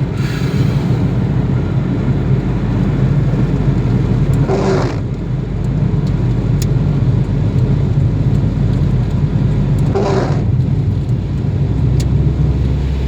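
Car on the move in the rain: a steady low rumble of engine and road noise under a constant wash, with a brief swish recurring about every five and a half seconds.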